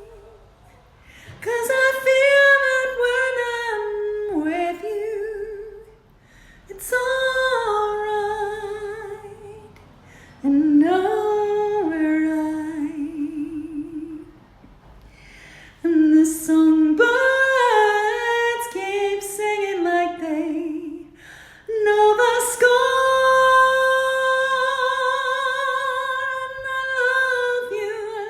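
A woman singing unaccompanied, with vibrato, in phrases broken by short pauses for breath; near the end she holds one long note.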